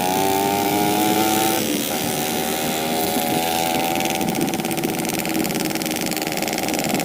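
Yamaha RX-King two-stroke single-cylinder engine running at a steady pace while riding, with a brief dip in the note about a second and a half in. The carburettor is tuned rich ('stel basah').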